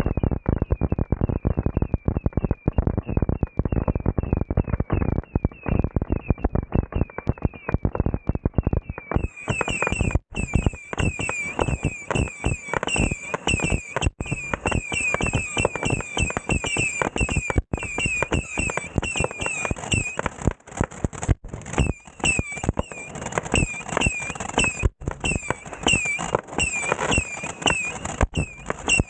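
Fireworks going off in rapid succession: dense bangs and crackling, with a fast run of short high chirps over them that grows louder about nine seconds in.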